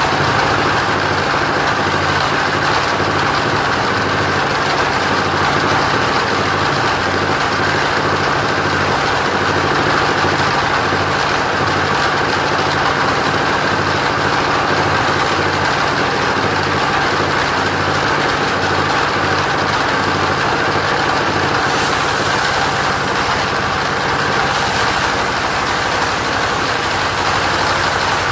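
Mobile sawmill's engine running steadily at an even speed.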